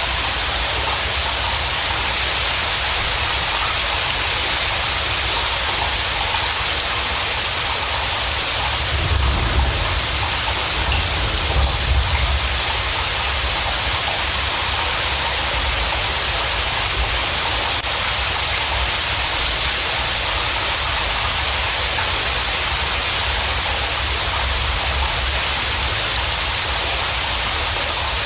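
Steady rain falling, an even hiss, with a low rumble swelling briefly about nine to twelve seconds in.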